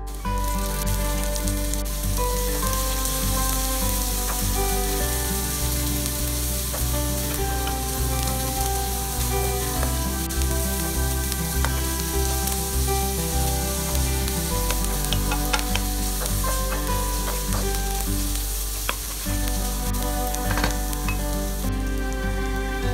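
Diced onion, chicken pieces and garlic frying in hot oil in a wok, sizzling steadily while a wooden spatula stirs and scrapes the pan, with a run of light clicks from the spatula in the second half. Background music with low notes plays underneath.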